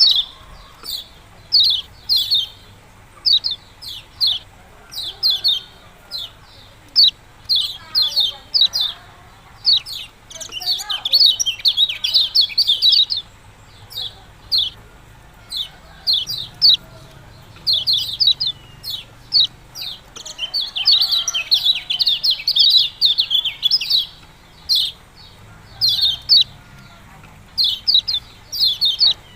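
A kecial kuning (lemon-bellied white-eye) calling over and over with its 'ciak-ciak' call: short runs of quick, high, down-slurred chirps separated by brief pauses.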